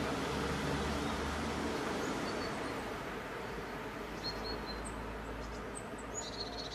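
Low rumble and running noise of a red double-deck regional train on the curve, slowly fading. Short high bird chirps come several times in the second half.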